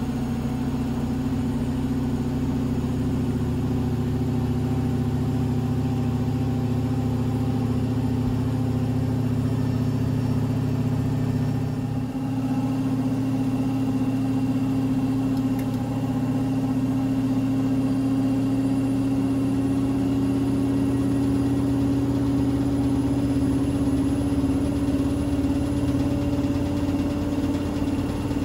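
Blomberg fuzzyDigitronic Granat 3200 washing machine spinning, its motor hum rising slowly and steadily in pitch as the drum speeds up. The low rumble changes about halfway through.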